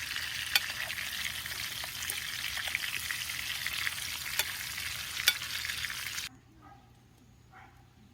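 Food frying on hot metal, a steady sizzle with a few sharp pops and spits, which cuts off abruptly about six seconds in, leaving a much quieter background.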